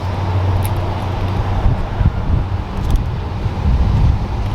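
Vehicle engine idling with a steady low hum, with wind rumbling on the microphone.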